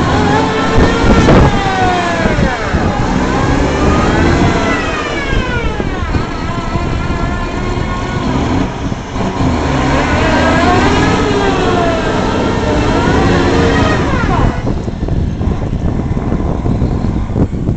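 A truck stuck on ice, its engine revving up and falling back again and again in long waves, with the wheels spinning for grip. The revving eases off about fourteen seconds in, leaving a steadier running sound.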